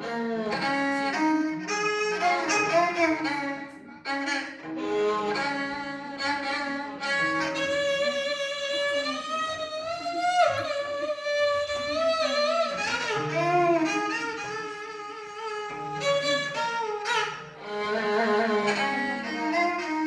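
Music led by bowed strings, a violin melody with gliding, sustained notes over lower string parts.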